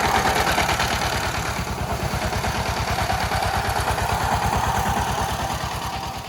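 An engine idling with a steady, rapid beat, easing off slightly near the end.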